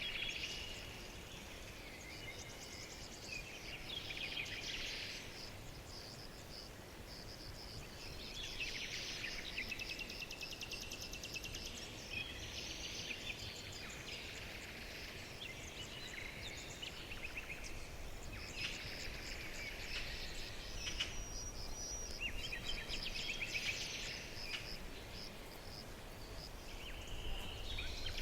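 Small songbirds singing in repeated phrases of rapid chirps and trills, one phrase every few seconds, over a steady low background rumble.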